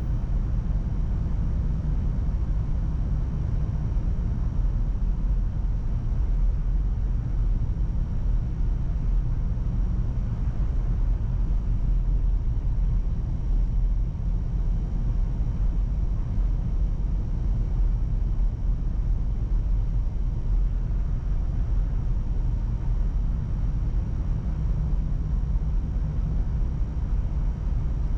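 Steady low rumble of a car driving, engine and road noise with no changes.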